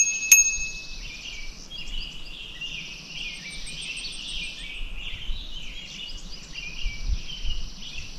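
Several songbirds chirping and singing in a continuous chatter, with a high steady hiss that comes and goes. Two short, bright ringing pings sound right at the start.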